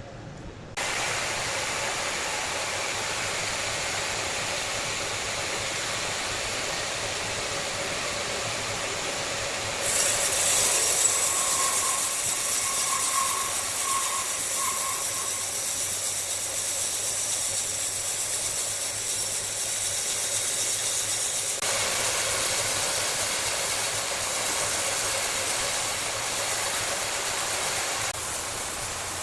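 Large wood saw running, a steady loud mechanical hiss and whir. It jumps abruptly louder and brighter about a third of the way through, and shifts again about two-thirds through.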